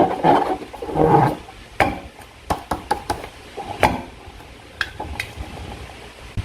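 Handling noises from slime and balloons being worked by hand: two rough squelching or rubbing sounds in the first second and a half, then scattered sharp clicks and taps.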